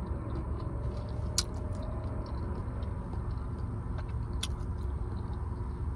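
Steady low rumble of a car idling, heard from inside the cabin, with a couple of faint sharp clicks.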